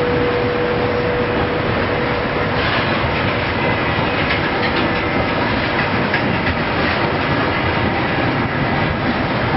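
Freight train cars rolling past close by: a steady rumble of steel wheels on the rail, with clacks as the wheels cross rail joints. A steady whine sounds for about the first two seconds.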